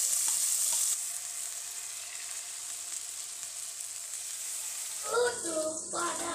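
Food sizzling in hot oil in a wok, louder in the first second as sliced bitter melon is tipped into the pan, then settling into a steady frying hiss with battered fritters in the oil. Other short sounds join about five seconds in.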